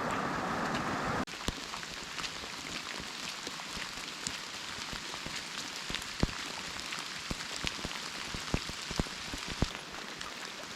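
Steady rain falling, with scattered individual drops striking close by as sharp ticks. About a second in, a louder rushing noise cuts off abruptly and the rain carries on.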